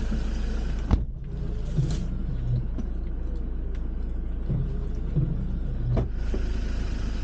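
Vehicle engine idling with a steady low rumble. A door slams shut about a second in, cutting off the hiss of rain from outside. Near six seconds there is another knock, and the outside hiss comes back as the door opens again.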